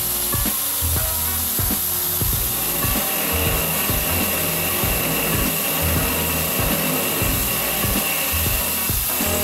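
CNC 6040 router spindle milling aluminium with an end mill, a steady cutting noise with the hiss of mist coolant blown at the cutter. Background music with a steady beat plays underneath.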